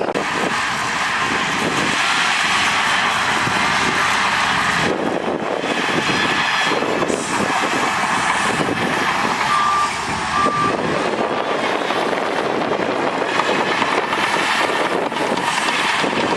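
Diesel engines of heavy earthmoving machinery (bulldozer, wheel loader, dump truck) running steadily at work. About ten seconds in come two short high beeps of a reversing alarm.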